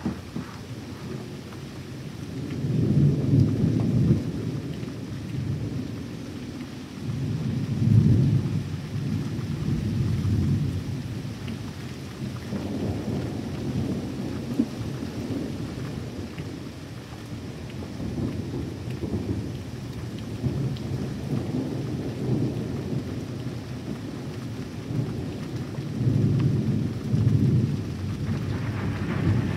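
Thunder rolling again and again over steady rain. Long low rumbles swell about three seconds in, around eight and ten seconds, and again near the end.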